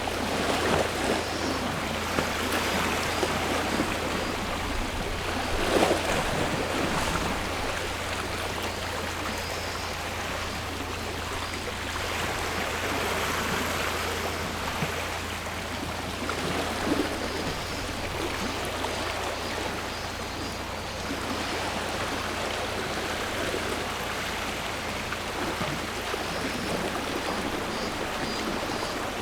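Sea waves washing onto the shore and draining back, in irregular swells every few seconds over a constant rush of surf.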